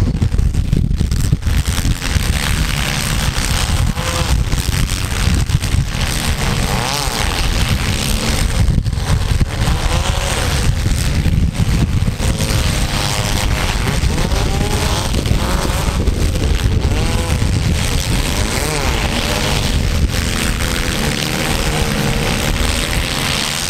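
Compact cars' engines revving up and down, several at once, during a demolition derby, over a loud, constant low rumble.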